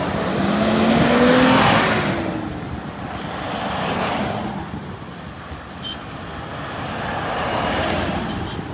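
Road vehicles passing one after another, their noise swelling and fading three times. The first pass, about a second in, is the loudest, with an engine note that falls in pitch as it goes by.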